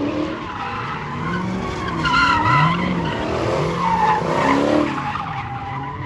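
A muscle car's engine revving up and down over and over while its tires squeal loudly, as in a burnout; the squeal peaks about two seconds in and again around four seconds in.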